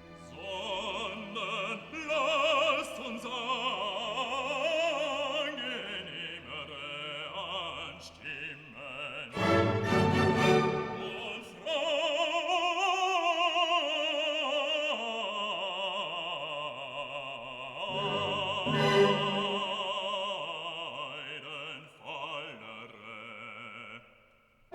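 Operatic singing over orchestral music; the voice holds long notes with a strong vibrato.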